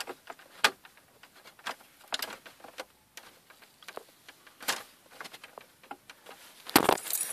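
Scattered light clicks and taps of hard plastic trim parts being handled, then a burst of rapid louder clattering near the end.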